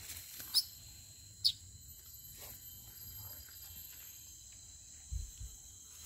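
Two short, sharp bird notes about a second apart over a steady high insect drone, with a couple of low thumps about five seconds in.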